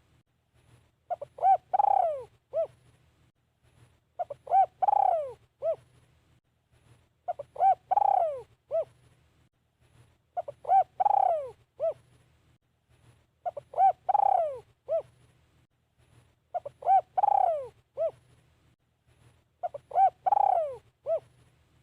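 Spotted dove cooing its song phrase over and over, about once every three seconds: two short coos, a long louder coo falling in pitch, then one short closing coo. A faint low hum lies underneath.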